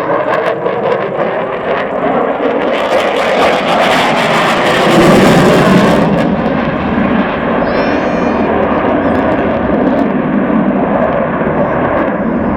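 An aircraft flying past at an air display: a loud engine rush that swells to its loudest about five seconds in, then eases off.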